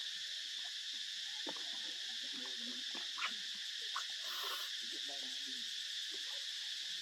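Steady, high-pitched chorus of insects, with a couple of short clicks near the middle.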